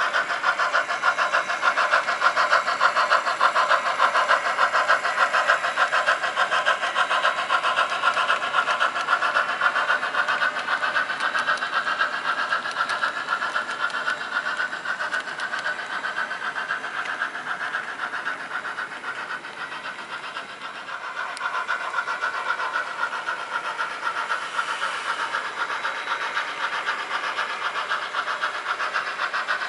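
HO scale model train running on the layout: a fast, even mechanical rhythm with a whine that slowly rises and falls in pitch. It dips in level about two-thirds of the way through, then comes back up.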